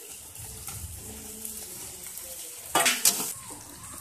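Cleaned shellfish meat frying in hot oil and ground masala in a steel kadhai, sizzling steadily as it is stirred with a perforated metal spatula. About three seconds in there is a loud, short clatter of metal on metal from the spatula against the pan.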